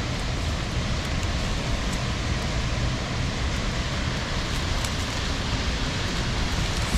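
A waterfall's falling water making a steady, unbroken rushing noise.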